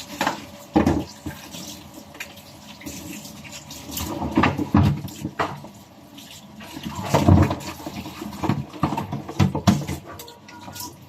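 Water splashing, with irregular knocks and clatter.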